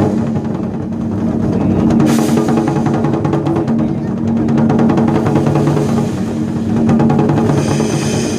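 Chinese war drums beaten in fast, dense rhythm over sustained musical tones, starting abruptly at full volume.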